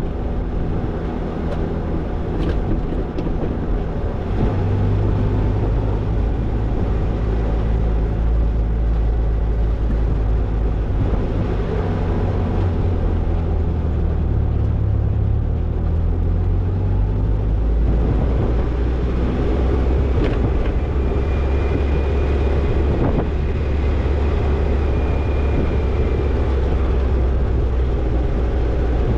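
Toyota Tercel 4WD wagon driving on a dirt trail, its engine running steadily with road and drivetrain rumble. The engine note rises about four seconds in and drops back lower about two-thirds of the way through.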